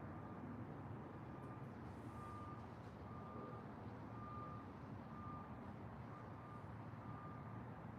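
Faint vehicle reversing alarm beeping at an even pace, about one beep a second, over a low steady rumble.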